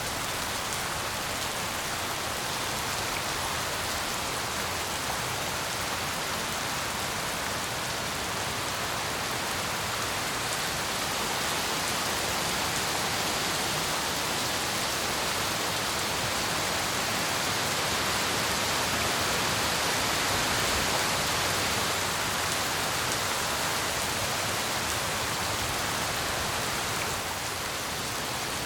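Steady tropical rain falling in an even, dense hiss. It swells slightly in the middle and eases a little near the end.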